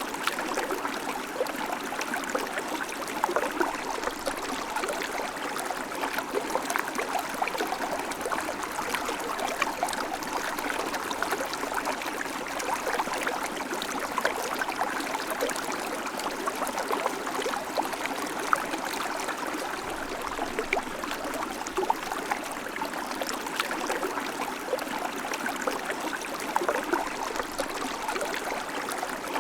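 River water flowing: a steady, even rush with many small splashes and gurgles running through it.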